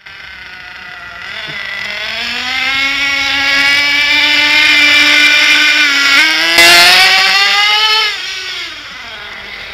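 Small high-revving model engine, the Avioracing GTX 25, running at speed with a high buzzing note. It builds steadily, rises in pitch about six seconds in, then drops back and quietens about eight seconds in.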